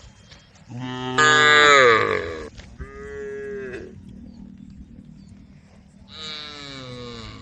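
Cows mooing: a loud long moo about a second in, a shorter one right after, and another starting near the end, each falling in pitch as it ends.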